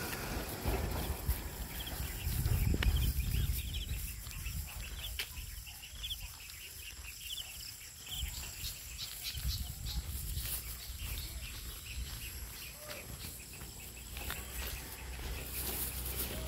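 Birds chirping in quick, repeated short calls over an uneven low rumble.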